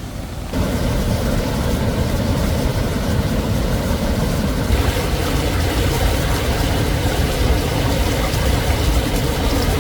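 An engine running steadily, its low rumble stepping up louder about half a second in.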